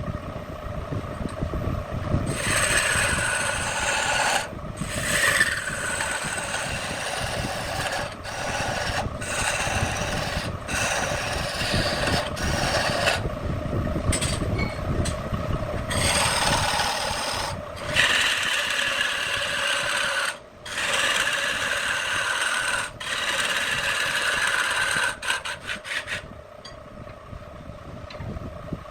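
Wood lathe running while a turning tool scrapes and cuts the spinning wood in repeated passes. The cutting noise stops briefly every few seconds as the tool comes off the work, over the lathe's steady hum.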